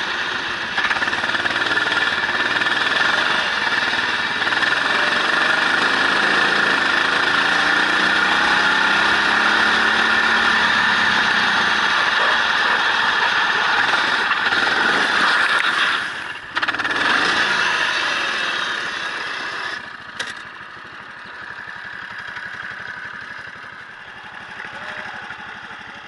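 Racing vehicle's engine heard onboard at speed on a circuit, its pitch rising and falling with the revs. It cuts out briefly about sixteen seconds in, then runs much quieter from about twenty seconds, as if lifting off and slowing.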